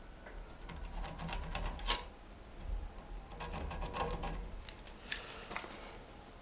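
Scattered light clicks and taps of ladder-kit parts being handled, in two loose clusters with one sharper click about two seconds in.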